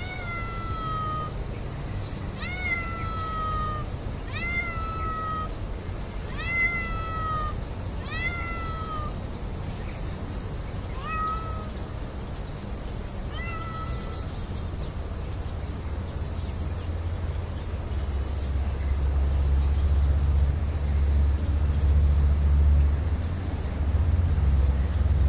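A cat meowing over and over, about eight meows each rising sharply and then trailing down, in the first half. In the second half a low engine rumble of a passing vehicle swells.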